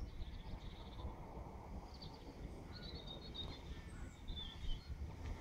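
Small birds chirping and singing in short phrases, several times, over a steady low rumbling background noise.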